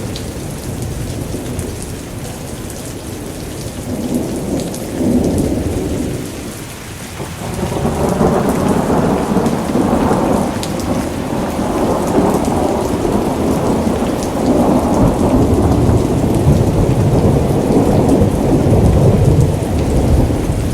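Steady rain with rolling thunder: the deep rumble eases about seven seconds in, then builds again and stays loud, with faint drop ticks above it.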